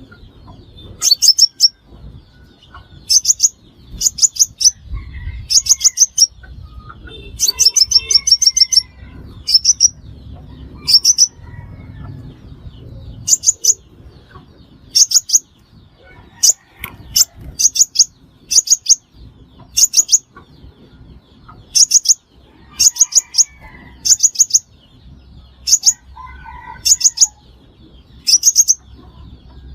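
Sunbird calling: loud, very high, thin chips in quick clusters of a few notes, repeated every second or two.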